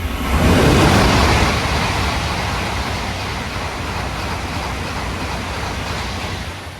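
Shinkansen bullet train passing through at high speed: a sudden blast of air and wheel noise about half a second in, then a steady roar as the cars rush by, dropping off near the end.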